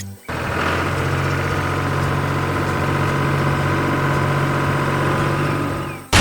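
Construction vehicle engine sound effect running steadily at idle. It starts about a quarter second in and cuts off just before the end.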